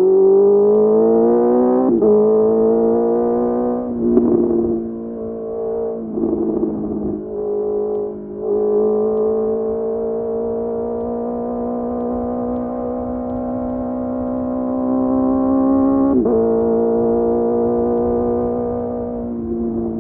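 Honda CBR650R inline-four motorcycle engine through a Mivv MK3 exhaust, accelerating under way with its pitch climbing. It shifts up about two seconds in and again about sixteen seconds in, with a rougher, uneven stretch from about four to eight seconds and steady cruising in between.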